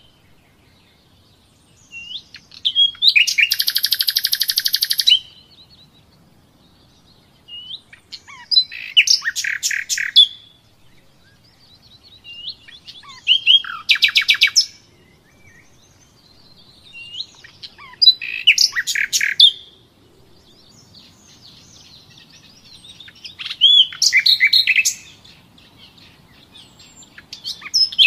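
A small songbird singing in bouts roughly every five seconds, each a run of quick chirps and a fast trill of rapidly repeated high notes.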